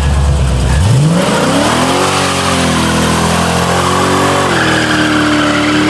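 Car engine revving up hard about a second in and held at high revs, wavering and then steady, with a hiss of spinning tyres rising alongside it: a burnout.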